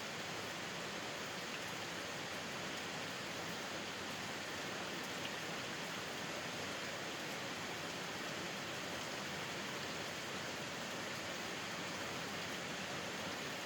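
Steady rain falling, an even hiss of drops with a few faint individual ticks.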